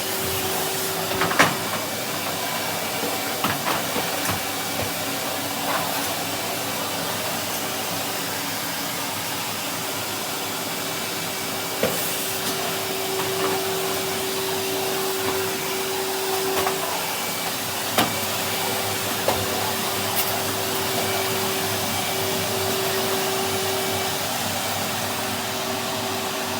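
Vacuum cleaner running steadily with a constant hum, with a few sharp knocks and clicks as it is pushed around.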